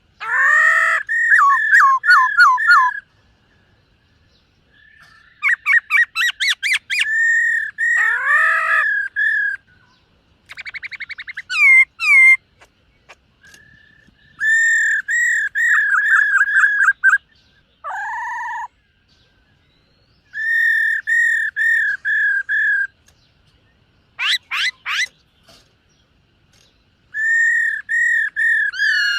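Black-throated laughingthrush singing loud whistled phrases, each a quick series of downslurred notes lasting a few seconds, with short pauses between phrases.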